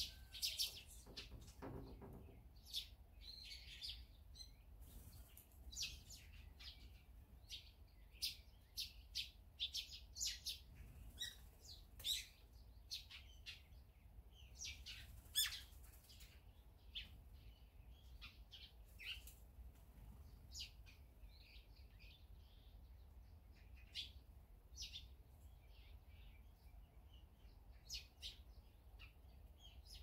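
Small songbirds chirping: many short, high chirps and calls scattered irregularly throughout, with the strongest about halfway through.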